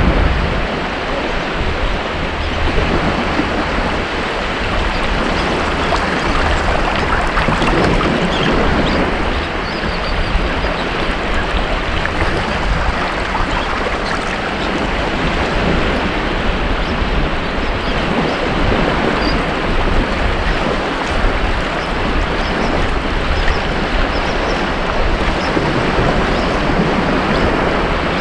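Ocean surf on a beach: a steady rush of waves breaking and washing in, swelling and easing a little in loudness.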